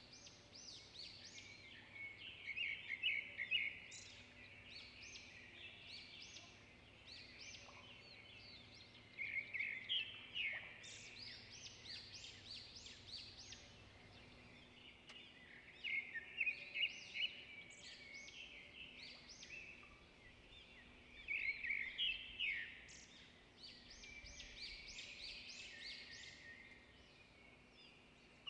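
Wild birds calling in bursts of rapid short chirps, recurring about every six seconds, over faint outdoor background noise.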